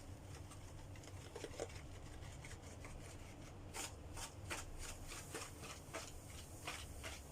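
Faint handling sounds: a series of short, soft scrapes and rustles, most of them in the second half, over a low steady hum.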